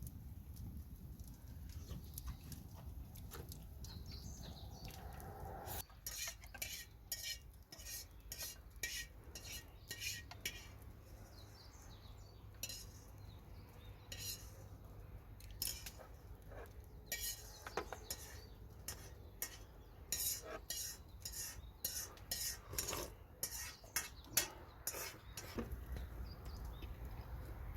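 Utensils clinking and scraping against dishes: a string of irregular light clicks starting about six seconds in and thinning out near the end.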